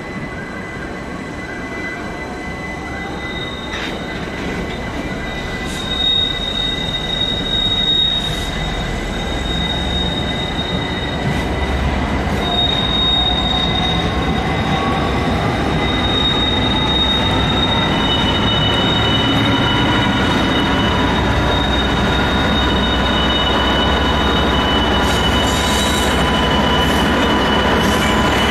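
Freightliner Class 66 diesel-electric freight locomotive (two-stroke V12) drawing closer and steadily louder as it runs round a tight curve. Its wheels squeal against the rails in long high tones, with a second tone joining about two-thirds of the way through.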